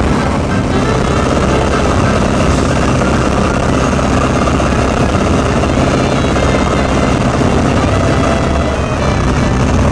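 Boeing 40C biplane's radial engine and propeller running steadily.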